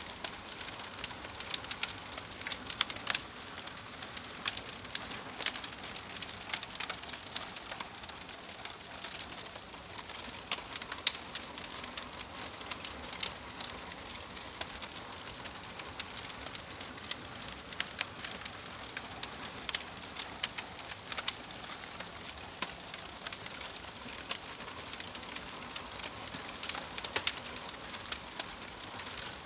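Crackling fire ambience: a steady soft hiss with frequent irregular sharp pops and snaps.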